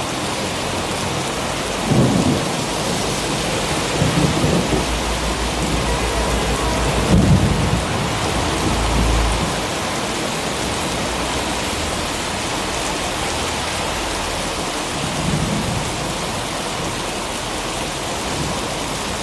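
Heavy rain pouring steadily, with several short low rumbles about two, four, seven and fifteen seconds in. The rumble around seven seconds in is the loudest.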